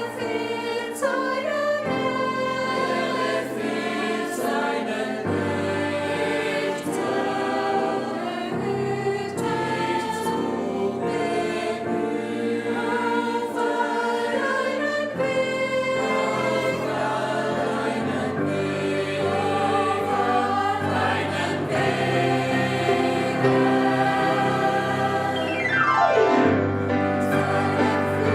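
Gospel choir singing in harmony over a moving bass line, with a quick falling glide near the end.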